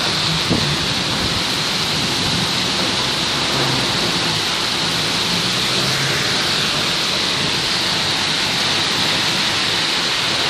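Heavy downpour: rain pouring onto a street and parked cars with an even, steady hiss.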